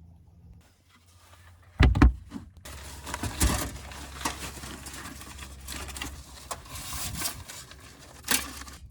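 Gear being handled and set down: two heavy thumps about two seconds in, then irregular rustling and clattering, with another knock near the end.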